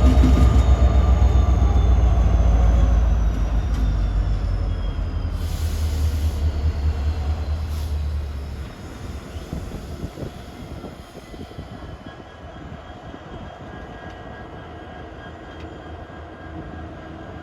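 A diesel train locomotive passes and pulls away; its low engine rumble fades and drops out about eight seconds in. The quieter rolling of the train on the rails carries on, with a faint high squeal that slowly falls in pitch.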